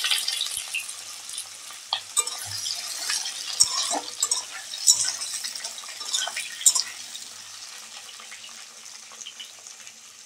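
Ridge gourd pieces frying in hot oil in a kadai: a sizzle that is strongest at first and dies down steadily, with a metal spatula clinking and scraping against the pan a few times in the middle.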